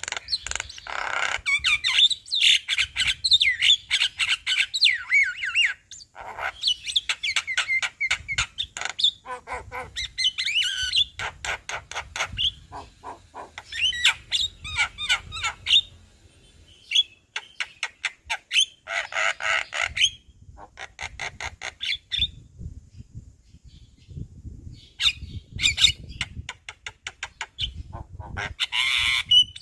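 Javan myna singing a long, varied song of harsh squawks, rapid rattling strings of notes and warbled whistles, in bouts separated by short pauses. The song is packed with mimicked calls of other birds.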